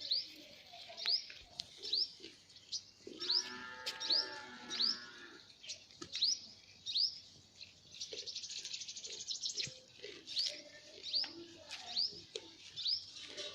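A small bird chirping over and over in short, rising chirps about once a second. A fast high trill comes around eight seconds in, and a longer, lower call with a steady pitch runs from about three to five seconds in.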